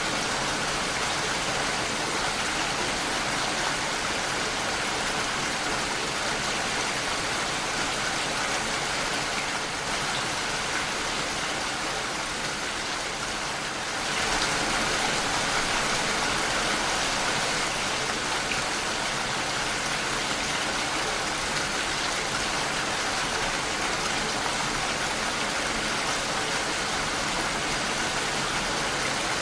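Steady rain falling against a window pane, an even patter with no pauses, dipping slightly for a few seconds midway.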